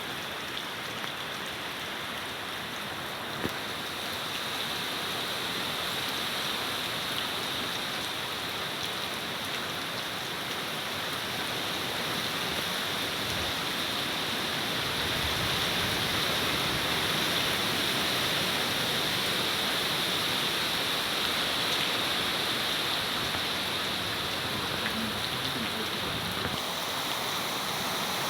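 Steady rain hiss with no pauses, growing slightly louder about halfway through, with a few faint drop-like ticks in the first seconds.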